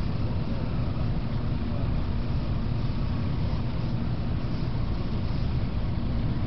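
Steady running rumble of a Tokaido Shinkansen Kodama train, heard inside the passenger cabin.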